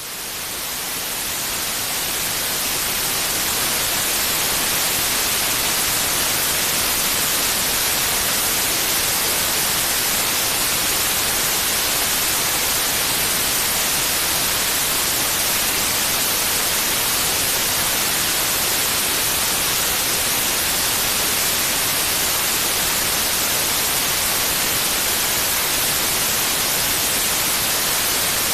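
Steady white noise, an even hiss strongest in the treble, fading in over the first few seconds and then holding constant, used as a sleep sound for babies.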